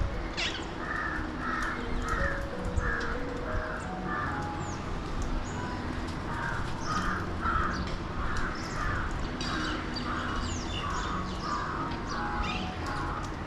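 Birds calling: a long series of harsh, rasping calls, about two a second, with a few sharp higher squawks that fall in pitch.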